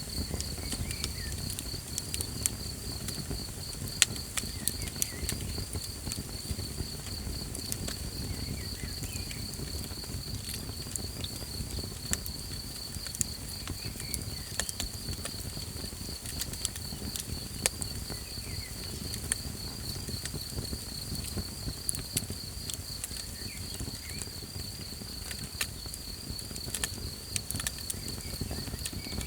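Campfire crackling, with scattered sharp pops, the loudest about four seconds in, over a low steady rumble. A steady, rapidly pulsing insect trill, like a cricket's, runs underneath, with a few faint short chirps.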